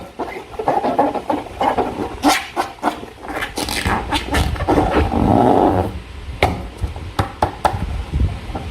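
Slime being squeezed and worked by hand: wet squelches with many sharp sticky clicks, and one longer squelch a little after halfway.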